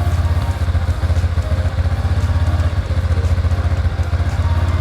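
TVS Ntorq 125 scooter's single-cylinder 125 cc engine idling steadily on fresh 10W-30 oil, just after an oil change; a fast, even low pulsing.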